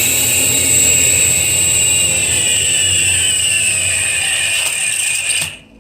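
Test rig spinning an Iveco alternator with a faulty overrunning (freewheel) pulley: a steady high whine over a low hum, with one tone gliding down partway through, then shut off suddenly near the end. The rotor has just stopped while the drive keeps running, a sign of the freewheel pulley slipping.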